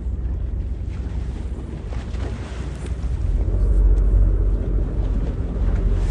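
Low, steady rumble of a boat's engine mixed with wind buffeting the microphone out on the open water; the rumble swells about three seconds in.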